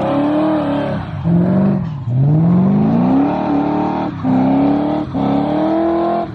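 Car engine revved hard over and over in a burnout, its pitch climbing for about a second and dropping back about five times.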